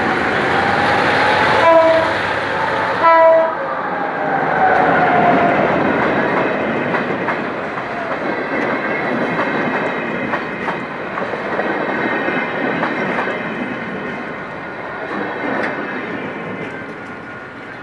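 Two short blasts of a diesel locomotive's horn, about two and three seconds in, over the rumble and clickety-clack of trains passing close: a passenger train behind a General Motors GT-22 diesel running past beside a line of empty coal hopper wagons. The rumble fades toward the end as the trains move off.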